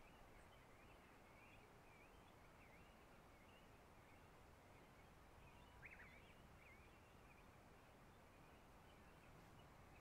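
Near silence: faint, distant birds chirping over a low background hiss, with one slightly louder call about six seconds in.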